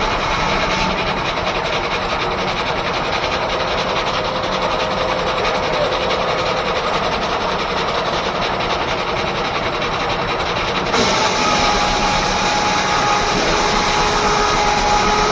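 Steam-powered 1880s R.R. Howell sawmill running: a steady mechanical rumble with a faint held whine. About eleven seconds in it turns brighter and a little louder.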